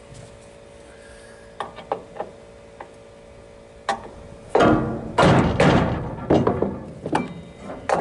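Hand-tool work on a wooden trailer deck: a few light clicks, then from about halfway a run of loud, irregular thunks and knocks, roughly one to two a second.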